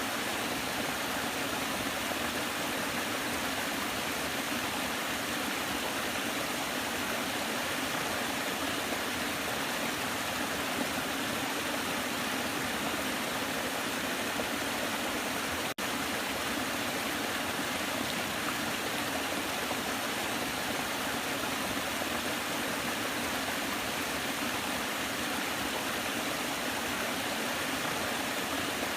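Waterfall: water falling and rushing in a steady, unbroken roar, with a momentary drop-out about halfway through.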